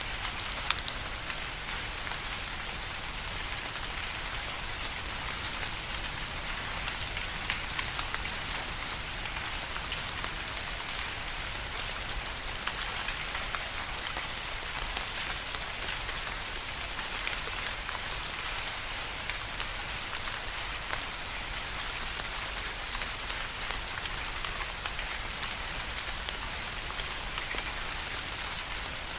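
Steady rain, with individual drops landing in a dense, continuous patter.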